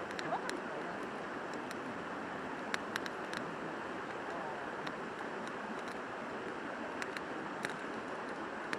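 A river rushing steadily close by, with a few sharp clicks now and then.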